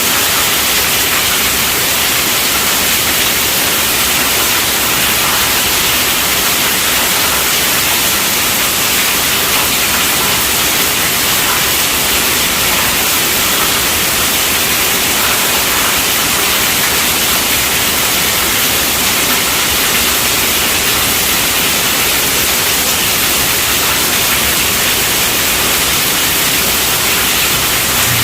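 Steady rainfall: an even, unbroken hiss with no separate drops or changes.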